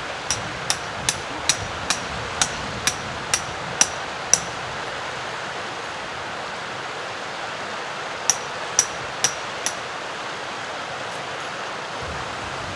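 Stream water running steadily, with a series of sharp strikes, about two a second, each with a brief high ring: ten in a row, then after a pause four more.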